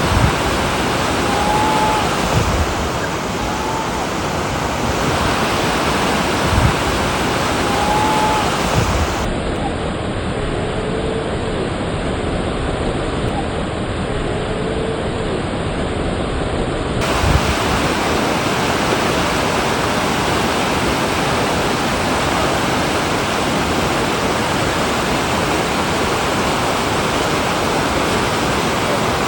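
Steady rush of river water pouring over rapids, with a few dull low knocks.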